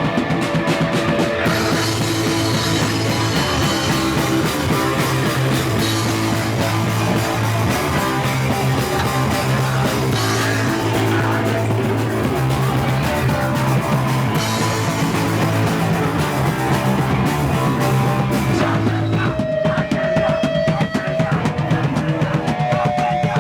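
A punk band playing loud live: distorted electric guitar, bass and a drum kit with crashing cymbals. About 19 seconds in, the cymbals drop away and the guitar carries on with held notes.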